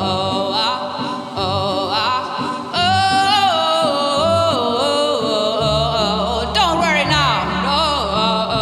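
Live band music with a singer's wordless vocal runs, sliding and wavering in pitch; a bass line comes in a little past halfway.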